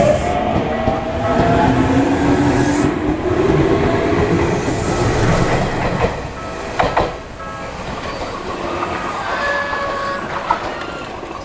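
Tokyu Ikegami Line electric train passing over a level crossing: wheels clattering with an electric motor whine rising in pitch. The sound drops off about six seconds in.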